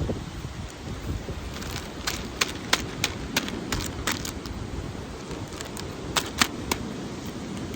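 About a dozen sharp, irregular clicks or taps over a steady low rumble, bunched between about two and seven seconds in.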